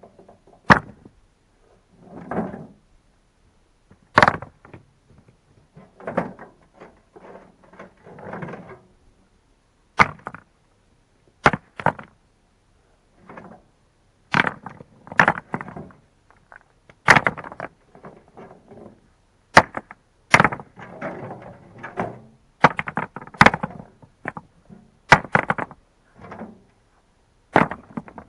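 Irregular sharp knocks of stones striking one another as rubble is handled and set down for a foundation, with scraping and shuffling between the knocks.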